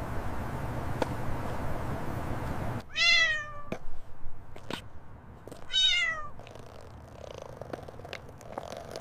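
Kitten meowing twice, about three seconds apart. Each meow is a short, high call that falls in pitch. The meows follow a few seconds of steady low rumbling.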